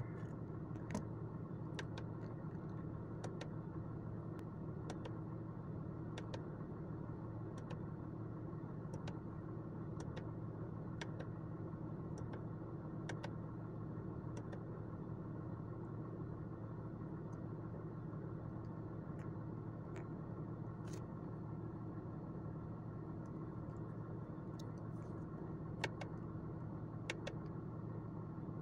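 BMW E39 5 Series diesel engine idling steadily, heard from inside the cabin. Sharp clicks come every second or two, from the on-board computer button being pressed to step through the display readings.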